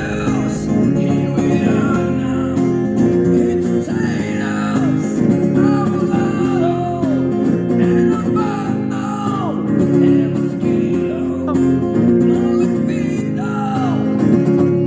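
Electric guitar playing an instrumental passage: a single-note lead melody with bent notes over a steady chordal backing.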